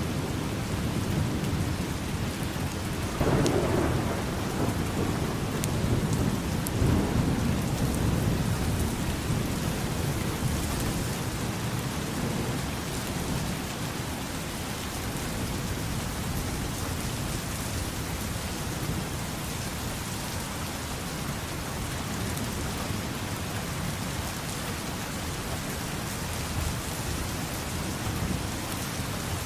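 Steady rain falling, with a low rumble of thunder that swells a few seconds in and dies away after several seconds.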